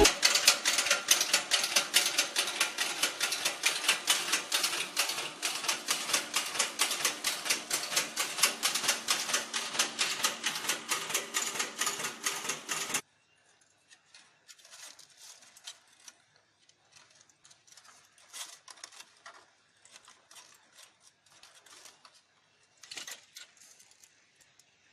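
Home-made laboratory sieve shaker running: its stainless-steel sieve and angle-iron frame rattle in a fast, even clatter of several strikes a second. The clatter stops abruptly about halfway through, as if the motor were switched off, and only faint scattered knocks follow.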